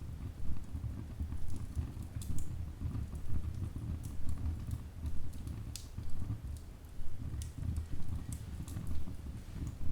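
Wood fire burning in a fireplace: a low, steady rumble of flames with irregular sharp crackles and pops from the burning logs, several a second.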